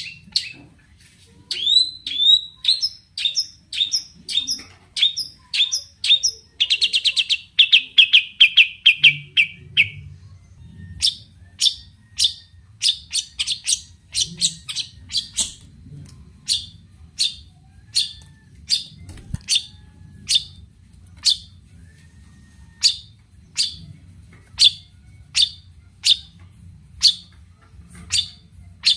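Long-tailed shrike (cendet) singing: a run of short rising notes, then a fast falling trill about seven seconds in, then a long series of sharp single notes about twice a second.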